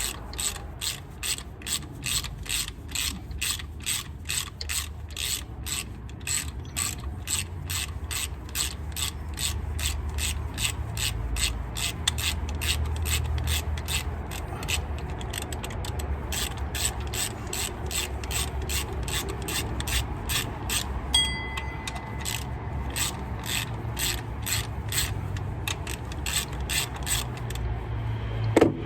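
Hand ratchet wrench clicking steadily, about two to three clicks a second, as bolts are worked loose during an engine teardown, over a low steady hum. A single knock sounds near the end.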